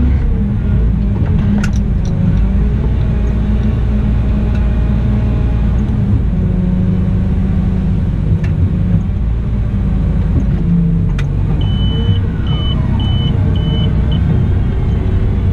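Cat 972M XE wheel loader's diesel engine running under work, its pitch rising and falling, with a few sharp clicks and a run of five short high beeps about twelve seconds in.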